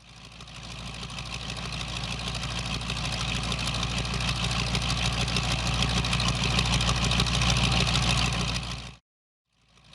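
Car engine running steadily, fading in and growing louder over several seconds, then cutting off abruptly; after a brief silence it fades in again near the end.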